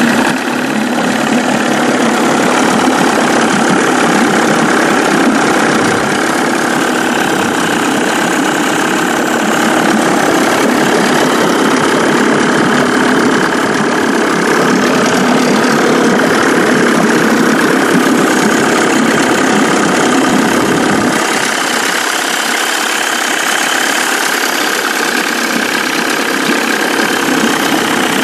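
2000 Johnson J25RSSE 25 hp two-stroke tiller outboard motor running steadily; its low rumble thins about two-thirds of the way through.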